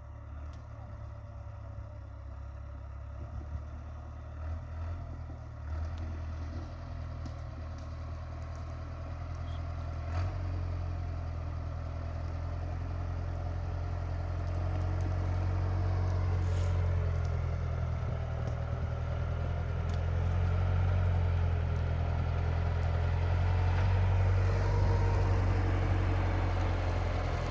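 International 745 tractor's diesel engine running steadily at a low, even speed, growing gradually louder, with a few light clicks and clatters over it.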